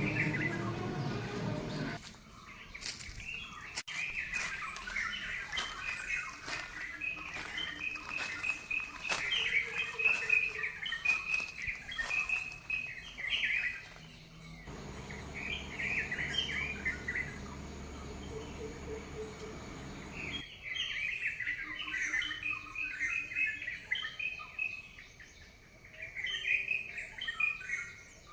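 Small birds chirping and twittering in quick clusters of short, high chirps, with the background changing abruptly a few times where separate recordings are cut together.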